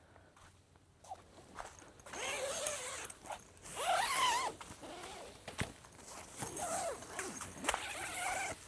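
A dog whining in several short calls that rise and fall in pitch, with rustling in between.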